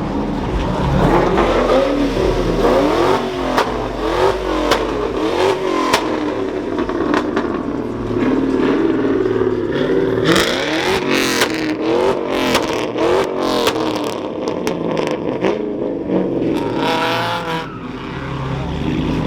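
Car engines revving hard over and over, pitch rising and falling. A run of sharp cracks comes in about ten seconds in.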